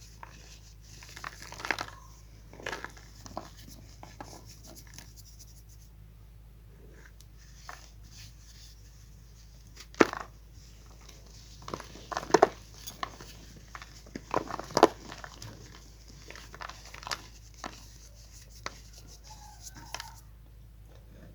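Chalk being crumbled and crushed: irregular crackling and crunching, with the sharpest, loudest crunches about ten, twelve and fifteen seconds in.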